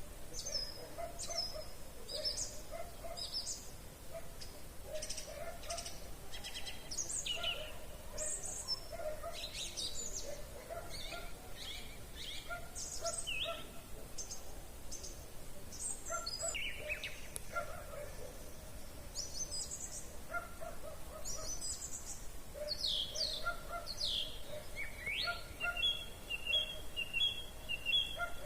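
Several woodland songbirds singing at once in an evening chorus: overlapping quick chirps and sweeping whistles, over a low, pulsing repeated call. A rapid series of repeated notes comes in near the end.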